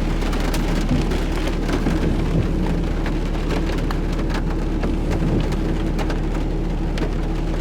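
Rain hitting a car's roof and windshield, heard from inside the cabin: many scattered sharp drop ticks over a steady noise of rain, with the low steady hum of the car running underneath.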